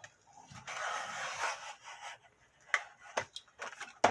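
Knife packaging being cut and pulled open with a box cutter: about a second of scraping and rustling, then a few sharp clicks.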